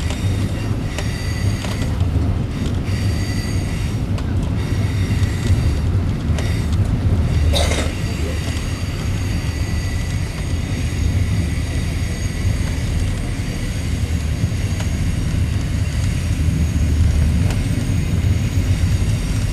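Steady low rumble of a passenger train running on the rails, heard from inside the carriage, with a faint steady high whine over it and one sharp click about eight seconds in.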